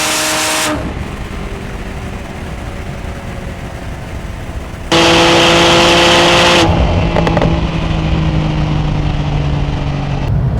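High-performance sports car engine running hard at speed, a steady engine note that sags slightly in pitch under wind and road rush. The sound changes abruptly twice, about a second in and about five seconds in, as separate takes are joined.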